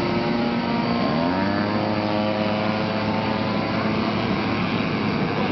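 Small electric motor and propeller of a remote-control foam toy aeroplane whining. The pitch rises about a second in and then holds steady.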